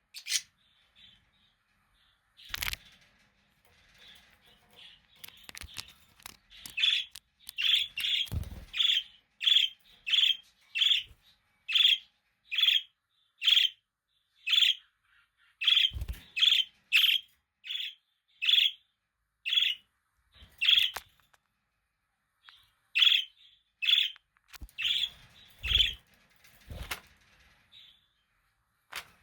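Budgerigar giving a long run of short, evenly spaced chirps, about one or two a second, with a brief pause about two-thirds of the way through. A few soft knocks sound between the chirps.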